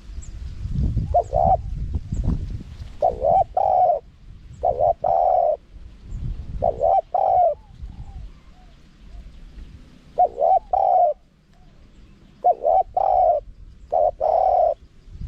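Spotted dove cooing: a string of short phrases, each two or three clipped coos, repeated every second or two. A low rumble sits under the first few seconds.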